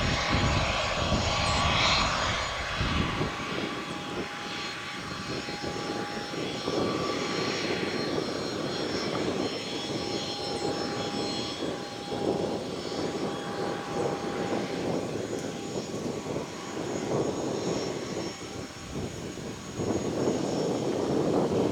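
Airplane engines running: a steady engine noise with several thin, steady high tones over it.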